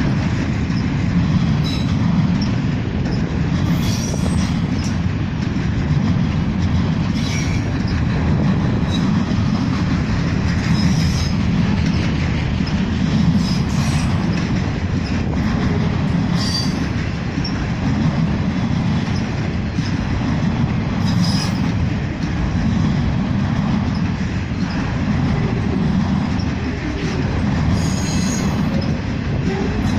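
Enclosed autorack freight cars rolling past, a steady loud rumble of steel wheels on the rails with brief high-pitched wheel squeals now and then.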